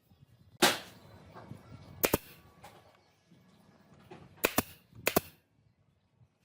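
Four sharp knocks spread over a few seconds, the later ones doubled, with a quiet gap near the end.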